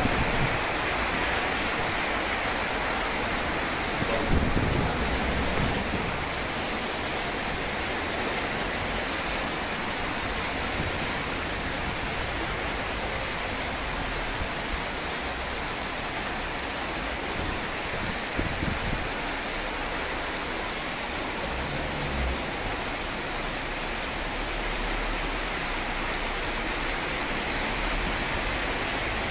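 Heavy rain falling steadily, a dense even hiss, with gusts of wind buffeting the microphone near the start and again about four seconds in.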